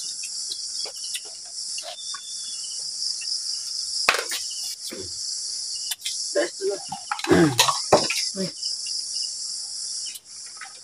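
Steady high-pitched chirring of crickets, with scattered small clicks and knocks, and a brief low voice about seven seconds in.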